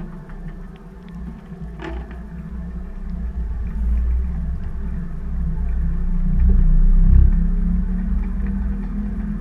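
BEKO washing machine drum and motor speeding up, a low rumble that grows steadily louder, heard from a GoPro riding inside the drum; a few knocks in the first two seconds. This is typical of the drum ramping up toward the final spin.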